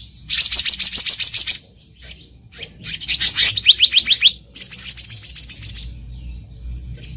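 Black-naped monarch calling: three quick runs of sharp, high-pitched notes at about eight or nine a second, the last run fainter, with short pauses between them.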